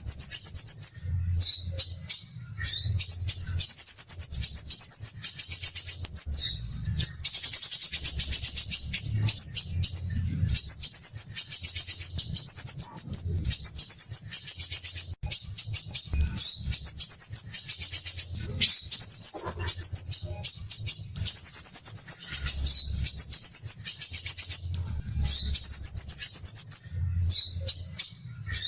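Crimson sunbird (sepah raja) singing in rapid, tightly packed, rough high trills. The phrases repeat one after another with only brief pauses between them.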